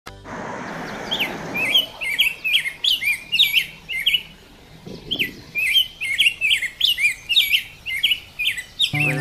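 Birds chirping in quick, repeated short calls, two to four a second, with a short pause about halfway through. A steady rushing noise sits under the first two seconds.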